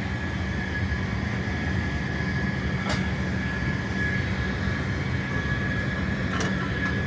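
Concrete pump's diesel engine running steadily: a low drone with a steady high whine over it. Two brief knocks come about three and six seconds in.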